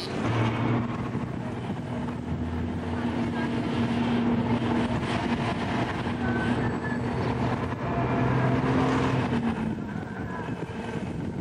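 Steady engine drone of a moving taxi, a copy of the 1950s Morris Oxford, heard from inside among busy city street traffic.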